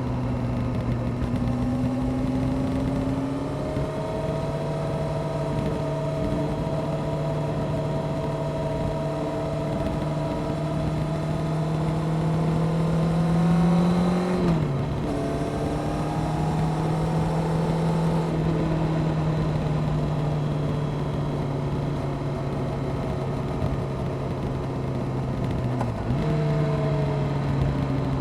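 Honda CBR600F Sport's inline-four engine breathing through a Delkevic aftermarket exhaust, pulling at steady road speed. The note climbs slowly for about fourteen seconds, drops sharply as the throttle is shut or a gear changes, then holds steady and dips briefly once more near the end.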